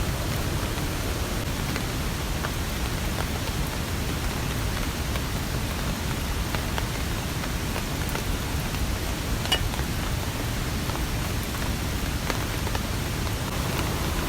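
Steady rain falling, with scattered drops ticking and one sharper tick about nine and a half seconds in.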